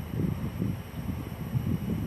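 Low, gusty rumble of wind buffeting the microphone.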